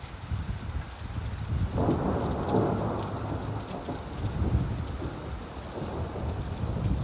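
Steady rainfall with a low rumble of thunder that swells about two seconds in and slowly fades.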